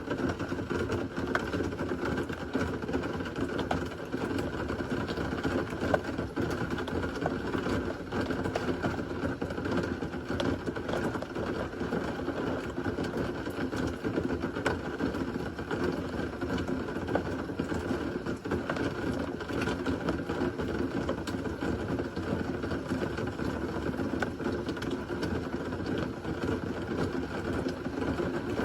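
Steady rain from a severe thunderstorm, a constant rushing hiss with many sharp drops ticking against a nearby surface.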